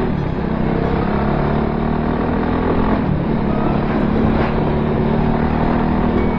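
Voge 300R single-cylinder motorcycle engine running steadily while riding, with wind rumble on the microphone. The engine note dips briefly about three seconds in, then settles slightly higher.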